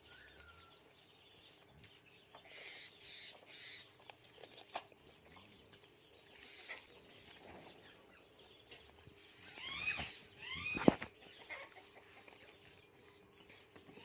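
Parrot making soft chirps and clucking calls, with scattered sharp clicks, then a quick run of louder rising-and-falling squawks about ten seconds in.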